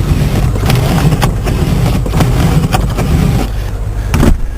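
A car engine running in the cold, with rumbling noise and scattered clicks over it, then a single thump near the end.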